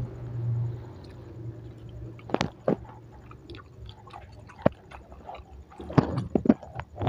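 Close-up mouth sounds of a person chewing food, with a scattering of sharp wet clicks and lip smacks, several of them grouped near the end.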